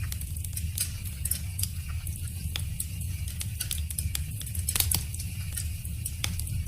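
Wood fire crackling: irregular sharp pops and snaps, a few louder ones about five seconds in, over a steady low rumble.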